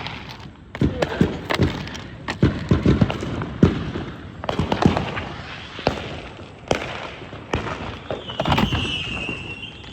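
Fireworks going off in quick succession: a string of sharp bangs and pops, with a wavering high whistle near the end.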